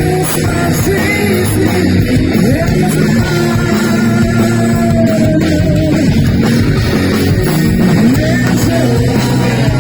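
Live heavy rock band playing, with a lead electric guitar carrying a line of bending, sliding notes over the band.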